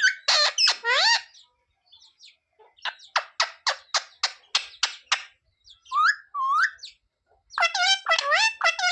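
Pet green parrot calling: a few warbling calls, then a rapid run of about nine short, sharp calls at roughly three a second, two rising calls, and another burst of warbling calls near the end.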